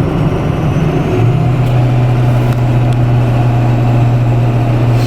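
Diesel pickup truck engine running under way with a newly fitted turbo, a loud low drone that settles to a steady pitch about a second in.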